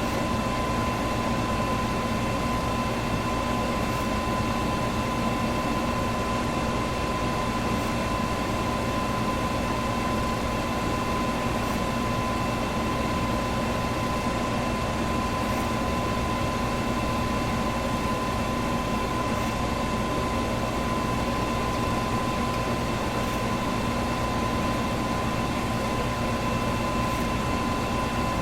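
Electric fan running steadily: an even rush of moving air with a low hum and a thin, steady whine over it, unchanging throughout.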